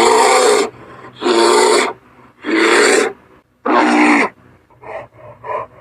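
An animal calling: four loud, rasping calls a little over a second apart, each under a second long, then a run of shorter, quieter calls near the end.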